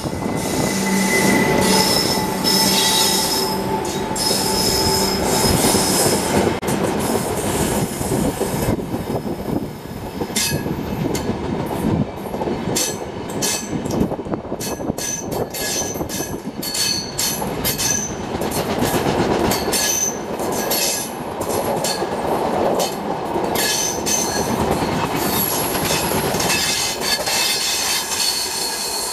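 WAP-7 electric locomotive and the LHB coaches of an express train passing close at speed. A steady whine fills the first few seconds as the locomotive goes by, then wheels click over rail joints in a rapid run, with short high wheel squeals.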